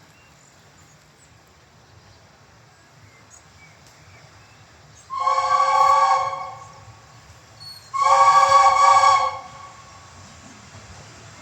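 Steam whistle of LNER Peppercorn A1 locomotive 60163 Tornado giving two blasts, each about a second and a half long and a few seconds apart, each a chord of several steady tones. A faint low rumble lies underneath.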